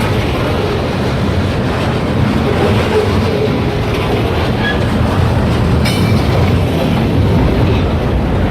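Freight train rolling past on the rails: a steady, loud rumble of wheels and cars, with a brief metallic sound about six seconds in.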